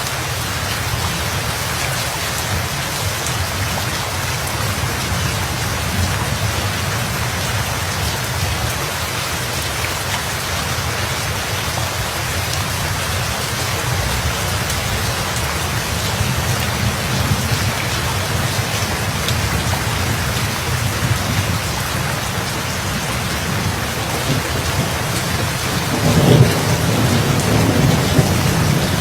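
Steady rain falling in a thunderstorm. Near the end a roll of thunder rumbles in and becomes the loudest sound.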